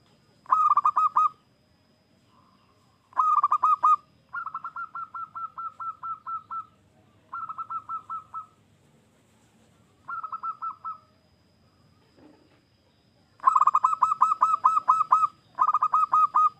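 Zebra dove (perkutut) singing: seven phrases of fast, rattling coo notes in quick succession, some phrases louder than others.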